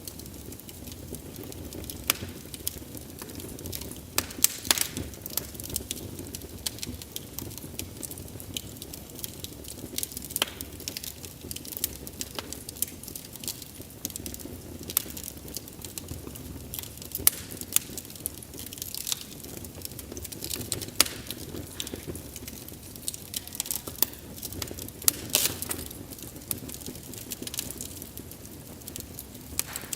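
Wood fire burning, with a steady low rush of flames and irregular sharp crackles and pops of the burning logs.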